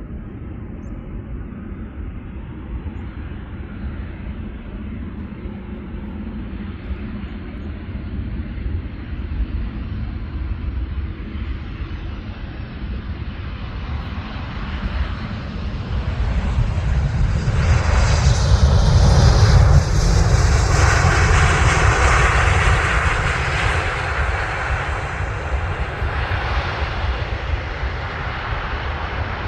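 Jet airliner on landing approach passing close by: a steady engine rumble builds, peaks a little past the middle, then slowly fades away.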